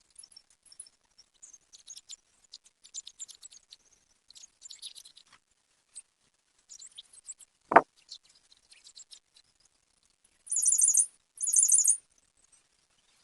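Small birds chirping with many short high notes, then two loud rapid trills near the end. A single sharp knock comes about eight seconds in.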